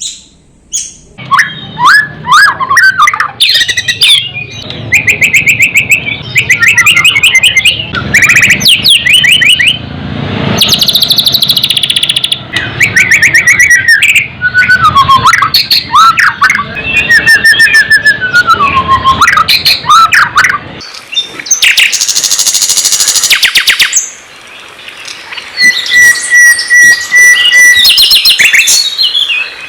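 Loud, varied songbird song: fast repeated chirps, trills and sweeping whistled phrases, with a steady held whistle near the end. It is a masteran training recording, birdsong played for a captive white-rumped shama to learn.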